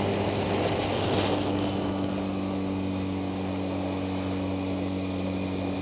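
Outboard motor running steadily with the boat under way, with a slight rise in engine pitch about a second in.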